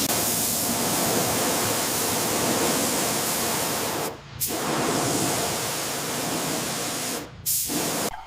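Pressure-washer jet spraying with a steady loud hiss, stopping briefly twice as the trigger is let go and cutting off near the end.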